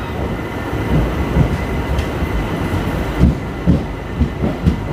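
Passenger train rolling slowly into a station, heard from on board: a steady low rumble of the coaches, with a run of wheel knocks over rail joints in the second half.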